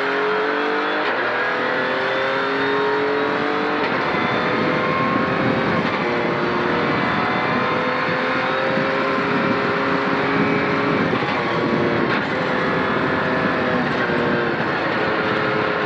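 Ford Fiesta Rally3's turbocharged 1.5-litre three-cylinder engine at racing pace, heard from inside the cabin. The engine note climbs for about four seconds, breaks off, and picks up again several times as the car is shifted and driven through corners.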